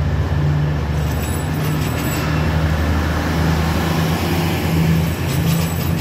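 Diesel train engine running close by, a steady low throb.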